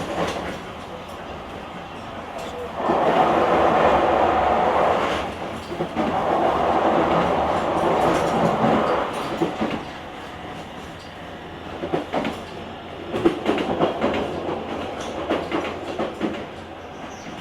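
Running noise of a JR Kyushu 883 series limited express train heard from its vestibule deck: a steady rumble, two loud rushing stretches of a couple of seconds each, then a run of sharp wheel clicks over rail joints in the last few seconds.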